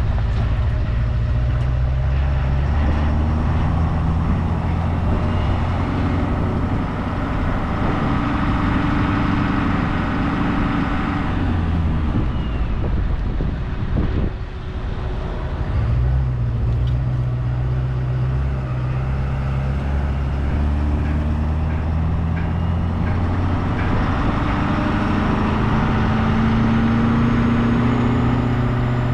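Ford F-350 Super Duty pickup running down the road, a steady engine drone with road noise. The engine note holds for a few seconds at a time and then shifts pitch.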